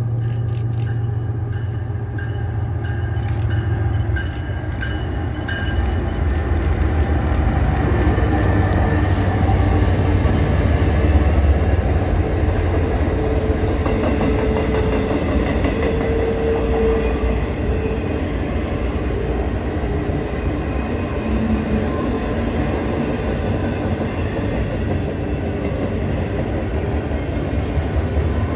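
Diesel-hauled double-stack intermodal freight train rolling across a trestle: a deep locomotive drone for the first few seconds, then the steady rumble and clatter of the loaded container well cars, with a faint wheel whine around the middle.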